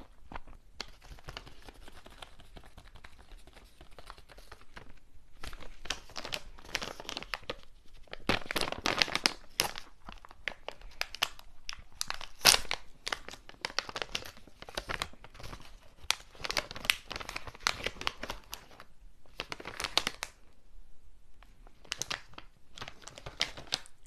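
Snack wrapper being crinkled and torn open by hand, in uneven bursts of close-miked crackling with short pauses between them.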